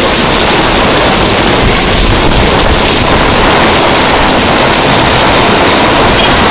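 Torrential rain with strong gusting wind: a loud, steady rush of noise.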